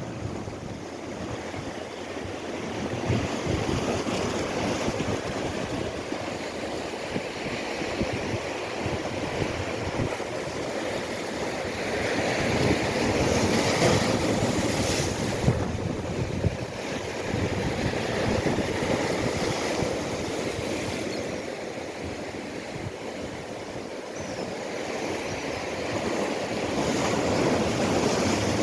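Sea surf: waves washing in with a steady rush that swells and ebbs, louder about halfway through and again near the end, with wind buffeting the microphone.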